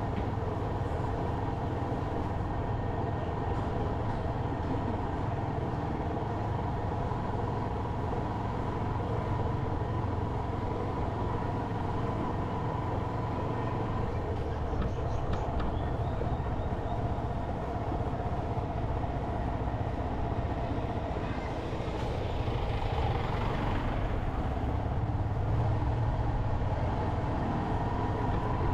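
Motorcycle engine running steadily while riding, with road and wind noise; a broader swell of traffic-like noise rises briefly about two-thirds of the way through.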